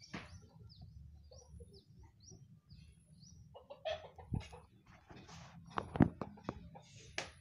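Bird chirping: a run of short, high, falling chirps repeated about twice a second, then rustling with a few sharp clicks in the second half, the loudest about six seconds in.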